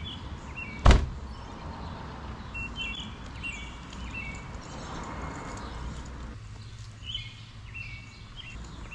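Birds chirping in short repeated phrases over a low steady rumble, with one sharp knock about a second in.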